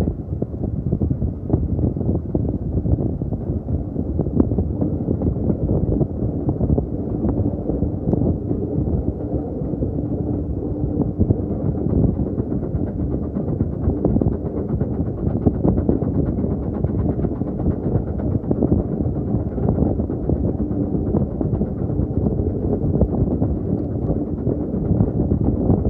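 Steady rumble and rattling of a moving railway carriage heard from on board, with wind buffeting the microphone.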